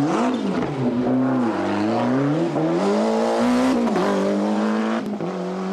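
Rally car engine revving hard through a stage, its pitch dipping and rising as the driver works the throttle, climbing to a peak about three and a half seconds in, then dropping sharply at a gear change and holding steady.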